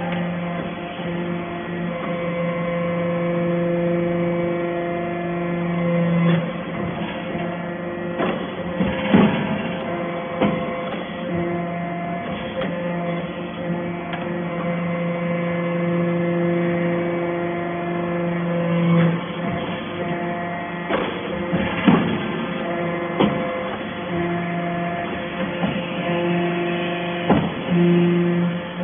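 A steady machine hum that cuts out and comes back several times, with scattered sharp knocks and clanks.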